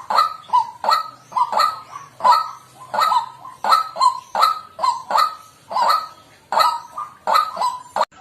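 White-breasted waterhen giving its repeated 'kwak' call, about two to three notes a second, often in pairs, each note dropping slightly in pitch. The call breaks off for a moment near the end.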